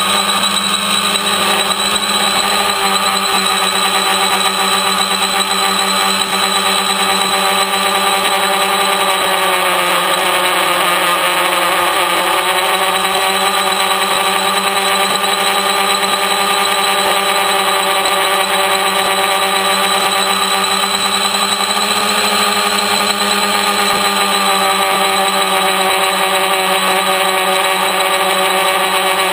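Electric motors and propellers of a DIY tricopter multirotor droning steadily in flight, a set of steady tones that dip slightly in pitch around the middle and then rise back.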